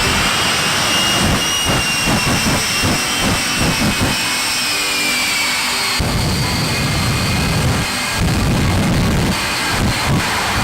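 Jet engine running at high power: a loud roar with a high turbine whine that drifts in pitch, cutting abruptly about halfway through to another stretch of jet roar.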